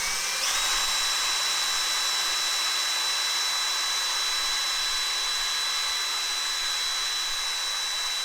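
Black and Decker electric drill running in one long continuous burst, its motor spinning up to a steady high whine about half a second in, while drilling into a VW T4 ignition lock cylinder to free it.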